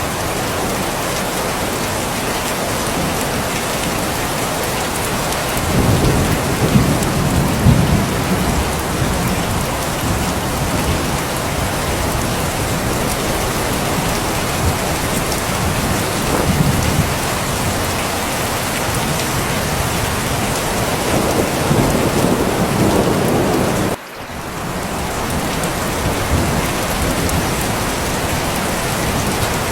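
Steady heavy rain, with low rumbles of thunder swelling about six seconds in and again past the twenty-second mark. The sound briefly drops out and fades back about 24 seconds in.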